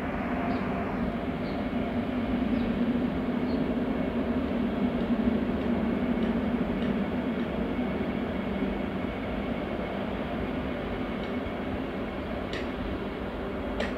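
Vande Bharat Express electric train set running past: a steady rumble of wheels on the rails, a little louder a few seconds in, then easing off.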